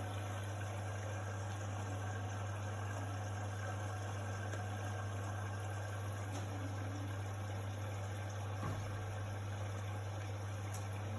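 A steady low hum over an even hiss, with one soft knock about three-quarters of the way through.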